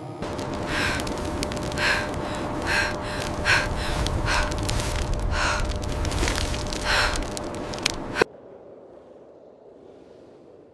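A person breathing hard in short gasps, about seven breaths over a steady rushing noise, which cuts off abruptly about eight seconds in.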